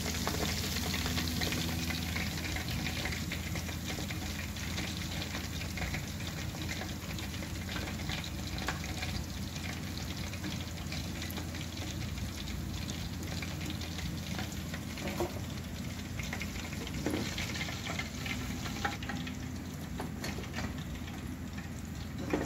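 Flour-coated chicken pieces frying in hot oil, a steady sizzle, with a few light knocks of a utensil against the pan.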